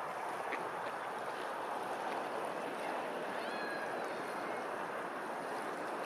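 Steady rush of running water, with a few faint high bird chirps a little past the middle.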